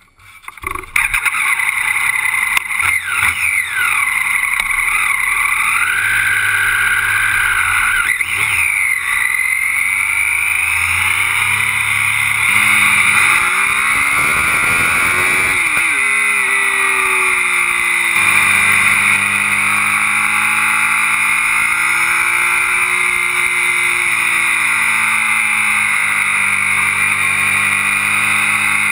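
Motorcycle engine pulling away about a second in and accelerating through the gears, then running at road speed with the revs rising and falling through the bends. A steady rush of wind and road noise on the mounted camera runs underneath.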